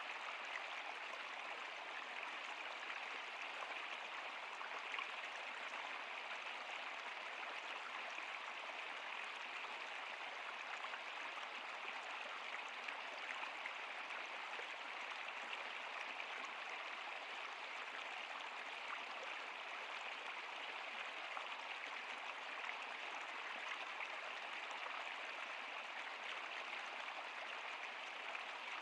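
River or stream water flowing steadily over rocks, an even rushing babble with small splashy flickers.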